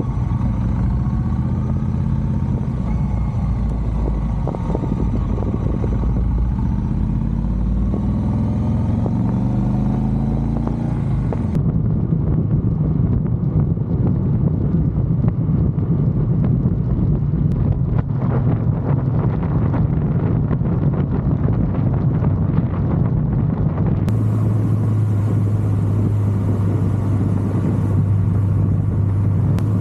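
Triumph Bonneville Bobber's parallel-twin engine running on the road. In the first part its pitch climbs several times as it accelerates, and then it holds steady. The sound changes abruptly twice, at about 12 and 24 seconds.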